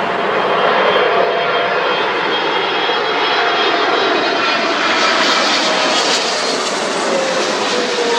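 Jet airliner passing close on Heathrow's runway 27L, its engines giving a loud rushing noise with a whine that slides down in pitch near the end as it goes by.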